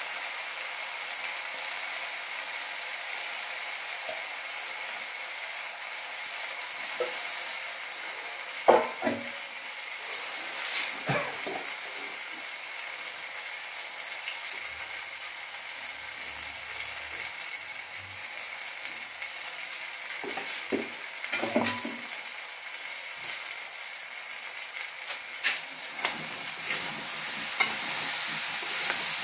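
Egg fried rice sizzling steadily in a steel kadai, with a few sharp knocks and clinks against the pan. Near the end a metal spatula stirs through the rice and the sizzle gets a little louder.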